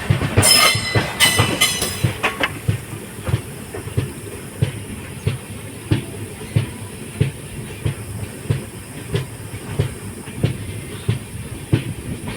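Passenger train running, its wheels clacking over rail joints in a steady rhythm of about one and a half knocks a second. Near the start there are two short high-pitched squeals.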